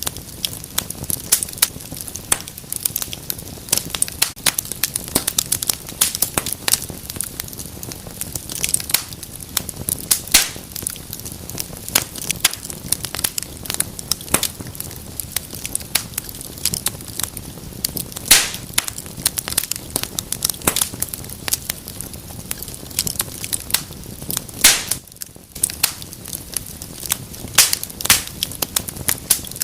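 Wood fire burning in a fireplace, crackling and popping constantly over a low rumble of flame, with a few louder pops and a brief lull about 25 seconds in.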